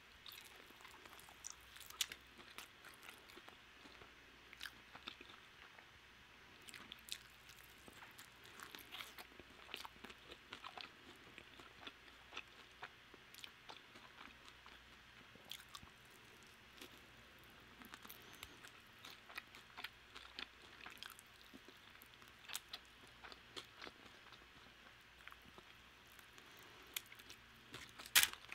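Someone chewing and biting a crispy, sauced fried chicken wing, heard close up: soft crunches and moist clicks, irregular and scattered, with a louder burst of crackling near the end.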